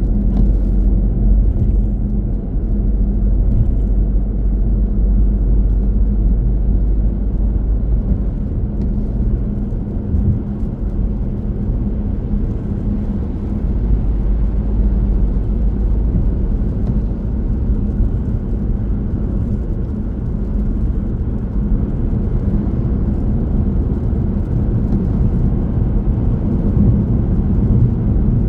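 Steady low rumble of a car driving along the road, tyre and engine noise together.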